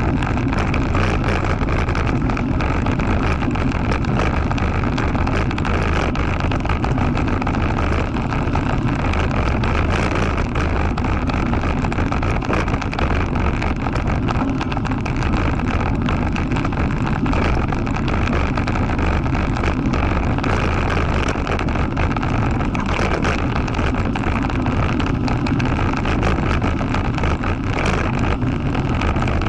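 Engine of an off-road motorcycle running steadily under way, at an even pitch with no revving up or down.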